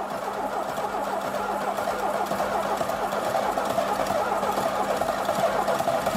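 Classic Lada four-cylinder engine, rebuilt with welded connecting rods, running rough and unsteady with a fast, even clatter, slowly getting a little louder. The unstable running is put down, perhaps, to lower compression in one cylinder: 6 atmospheres against 8 in the other three.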